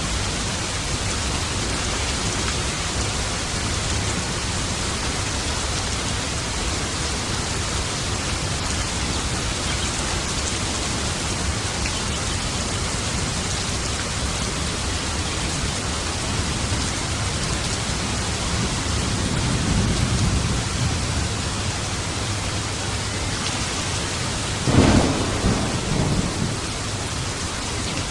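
Steady heavy rain with thunder: a low rumble swells about two-thirds of the way in, then a sharp thunderclap near the end rolls off into rumbling.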